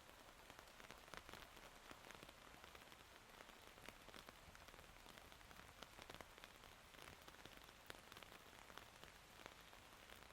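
Faint steady rain falling, with many separate drops ticking on hard surfaces.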